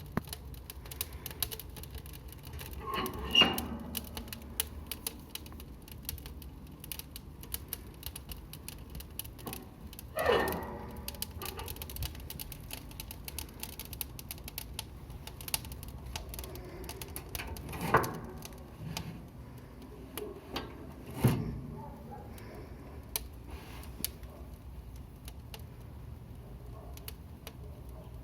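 Wood fire crackling in a fireplace: many small irregular clicks over a low steady rumble, with four louder pops spread through.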